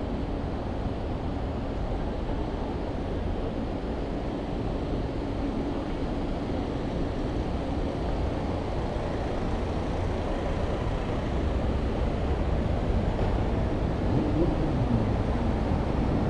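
A motor vehicle's engine rumbling low and growing steadily louder as it approaches, with a pitched engine hum rising in the last couple of seconds.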